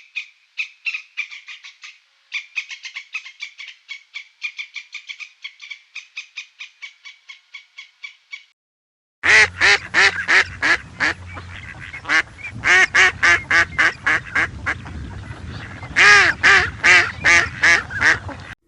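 Bird calls: a rapid series of high chirps for about eight seconds, then after a short break a louder run of quick repeated calls, coming in clusters over a low hum.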